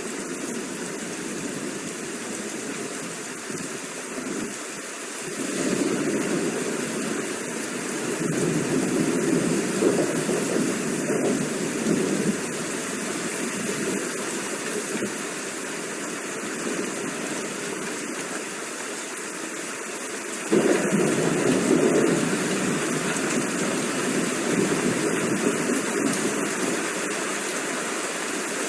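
Steady rain with rumbles of thunder. A low rumble swells about five seconds in, and a louder one starts abruptly about twenty seconds in.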